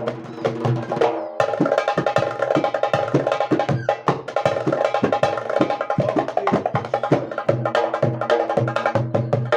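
Darbuka (goblet drum) improvisation: fast, dense strokes with deep low hits that drop in pitch, over a steady melodic accompaniment that fills out about a second and a half in.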